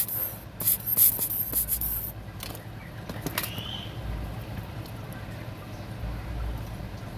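Several short hissing spray bursts in the first two seconds, then a steady low hum from the workbench.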